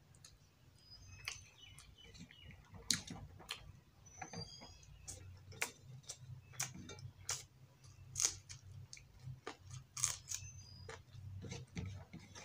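Close-up chewing of a mouthful of rice and fish curry: irregular wet mouth clicks and lip smacks, a few every second, over a low steady hum.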